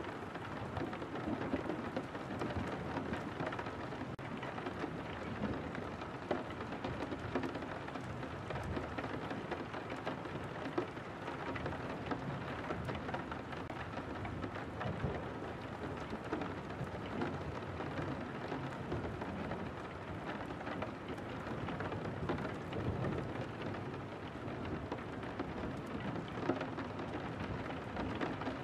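Steady rain on window glass, with many small drops tapping continuously and no letup.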